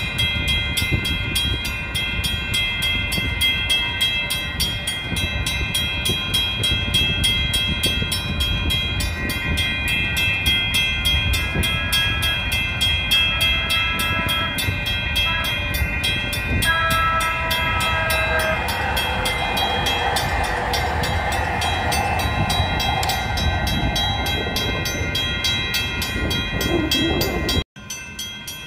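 Steady low rumble of a train running nearby, with sustained high tones and a few short tones about halfway through. The sound drops out briefly near the end.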